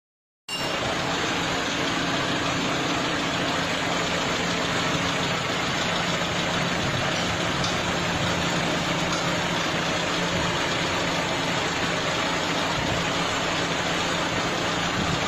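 Suzuki Baleno engine idling steadily.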